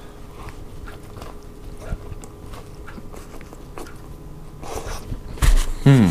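A person biting into and chewing a grilled hot dog in a soft bun, with faint wet mouth clicks. A brief vocal sound comes near the end.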